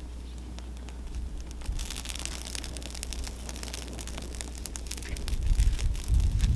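Campfire crackling and popping, with sharp irregular snaps from about two seconds in. Near the end, low gusts of wind on the microphone build up.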